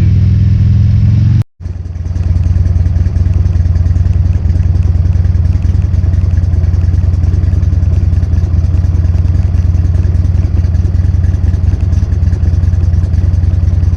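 2009 Buell Lightning XB12Scg's air-cooled V-twin with a Hawk aftermarket exhaust, running steadily at cruising speed, with wind noise over it. The sound cuts out briefly about one and a half seconds in, then comes back and settles into the same steady drone.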